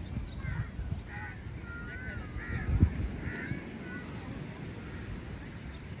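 Birds calling: a tangle of short warbling, whistled calls with a steady series of brief high chirps about twice a second. Under them runs a low rumbling noise, with a single thump about three seconds in.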